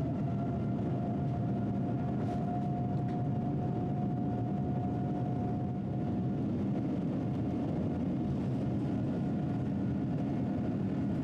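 Boeing 787-10's GEnx-1B jet engines at takeoff power, heard from inside the cabin: a steady fan whine over a heavy low rumble during the takeoff roll.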